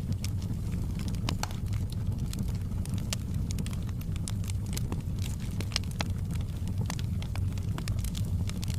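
Wood fire burning in a fireplace: a steady low rumble under frequent irregular crackles and pops.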